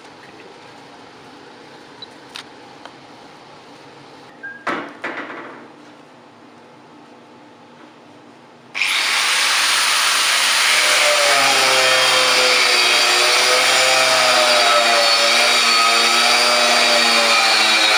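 A few light clicks and knocks, then about nine seconds in a power grinder starts abruptly and runs loud, its whine wavering in pitch as it works the steel.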